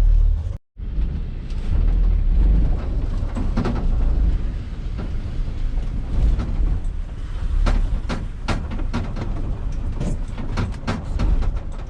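Vehicle cabin noise while driving: a steady low engine and road rumble, with repeated knocks and rattles, most of them in the second half, from a load of scrap metal shifting in the back.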